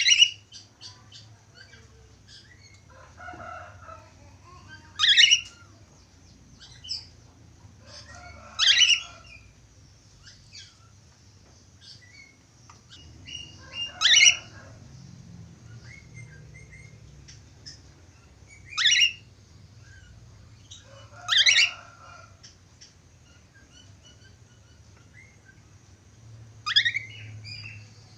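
Budgerigar (Australian parakeet) calling: about six loud, short, sweeping chirps a few seconds apart, with softer chirping between them.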